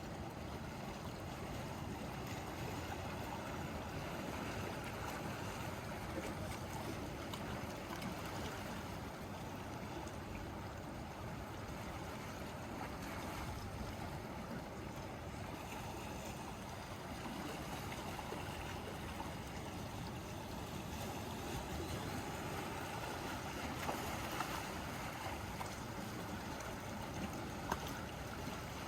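Sea waves washing against the shore in a steady wash that swells and eases slowly, with a few faint clicks near the end.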